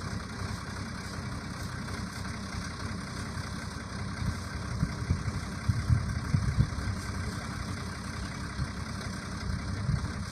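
Truck engine running at low revs, a steady low rumble that grows louder and more uneven for a couple of seconds about halfway through.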